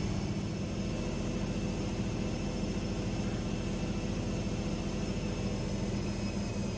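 AEG Lavamat 6610 washing machine running, a steady motor hum with faint high whining tones.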